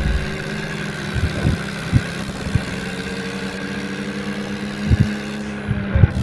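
Tractor engine running at a steady speed, with occasional short knocks and clunks over it.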